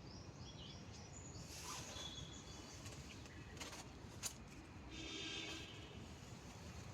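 Faint outdoor background noise with a few short, high bird chirps in the first second and a single sharp click just after four seconds in.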